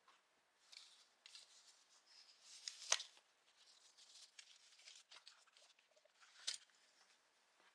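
Faint handling noises: soft rustling and light clicks, with a sharper click about three seconds in and another about six and a half seconds in.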